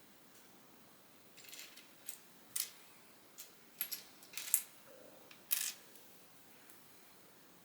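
Small plastic Lego pieces being handled and clicked together: a soft rustle, then about nine sharp plastic clicks and clacks over some four seconds.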